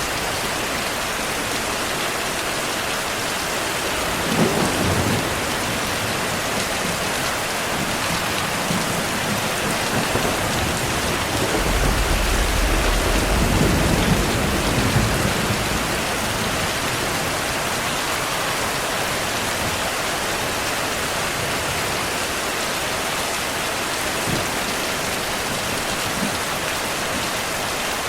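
Steady heavy rain falling, with thunder rumbling: a short roll about four seconds in and a longer, louder roll from about twelve to fifteen seconds in.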